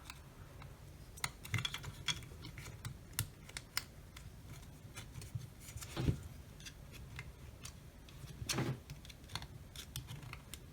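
Scattered small clicks and taps of plastic and metal parts being handled and prised apart as a security camera's casing is taken apart by hand, with two louder knocks about six and eight and a half seconds in.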